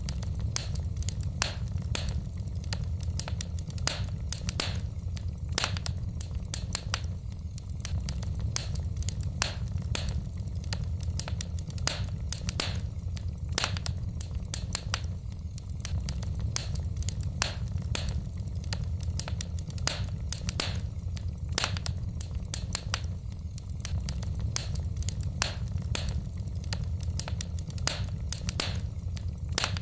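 Wood fire burning in a fireplace: irregular sharp pops and crackles of the burning logs over a steady low rumble of the flames.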